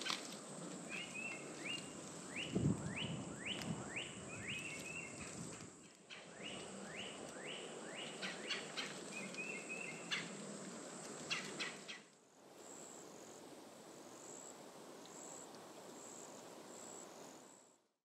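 Birds calling in a swamp: a run of quick rising whistled notes and short chattering calls over a steady high whine, with a low thump about two and a half seconds in. About two-thirds of the way through, the calls stop, leaving a quieter hiss with a high note pulsing steadily.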